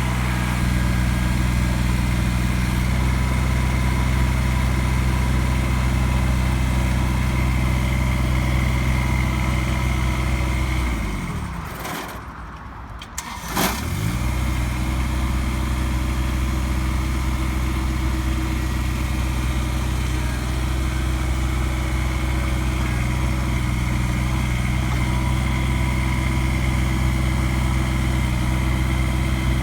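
Small three-cylinder diesel engine of a sub-compact tractor running steadily at throttle. About eleven seconds in it winds down and stops, and a couple of seconds later an engine starts with a sharp catch and runs steadily again.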